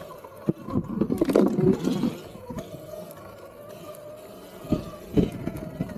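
Electric dirt bike being ridden: a faint steady motor whine, with irregular knocks and rattles from the bike about a second in and again near the end.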